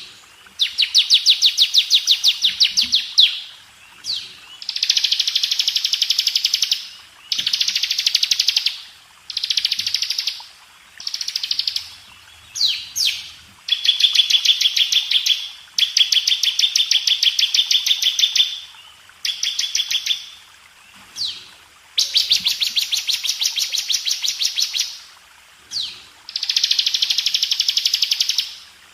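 Bar-winged prinia (ciblek) singing: bursts of very fast, dense trilling lasting one to three seconds each, broken by short pauses and a few quick sweeping notes, repeated throughout.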